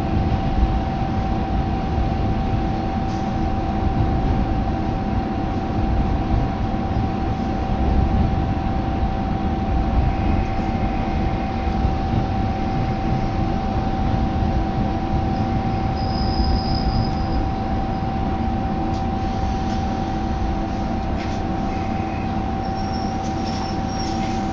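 Diesel railcar running, heard from inside the passenger cabin: a steady low rumble of engine and wheels with a steady hum above it, easing slightly as the train pulls into the station near the end.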